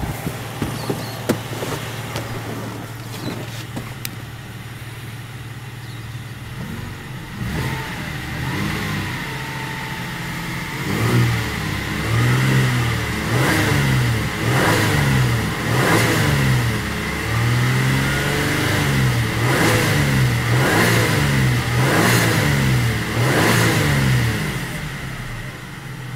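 A 2007 Holden Rodeo's 3.6-litre V6 petrol engine idling, with a few sharp knocks in the first two seconds. From about eight seconds in it is blipped up and down repeatedly, about a dozen quick revs, then it drops back to idle near the end.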